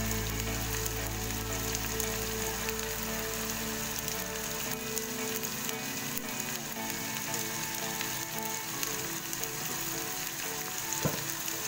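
Ground green chili paste frying in oil in a wok, a steady sizzle, with one sharp knock near the end.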